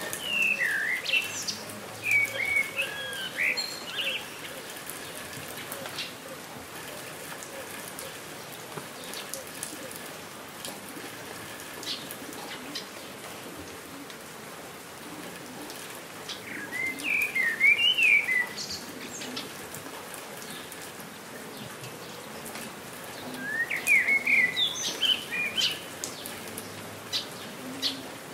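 Steady rain falling, with scattered sharp drip ticks, and a songbird singing quick warbled phrases in three bursts: at the start, a little past halfway, and near the end.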